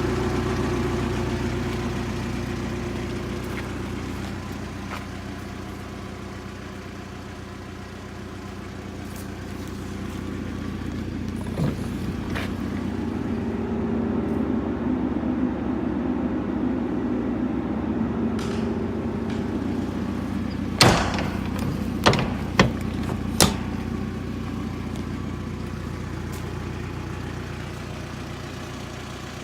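Mitsubishi Canter truck engine idling steadily, its level slowly swelling and fading. About two-thirds of the way through come four sharp knocks in quick succession.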